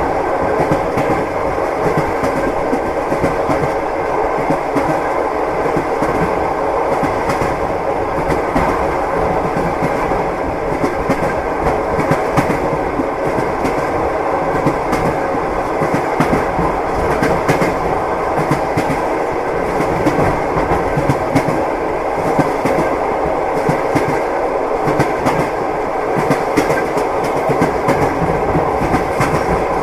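Train running steadily, its wheels clicking over the rail joints above a constant rumble of the carriage.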